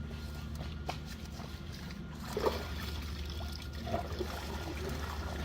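Water trickling and dribbling, with a small splash about two and a half seconds in and another near four seconds, over a steady low hum.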